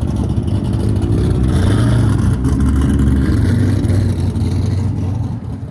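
A car's engine and exhaust running loudly with a deep, steady note that rises and falls a little in pitch, then grows quieter near the end.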